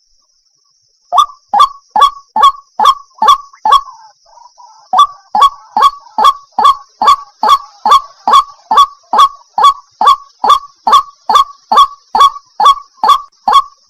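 Water hen calling: one loud call repeated over and over, a little more than twice a second. The calls start about a second in and pause briefly around four seconds, then continue steadily.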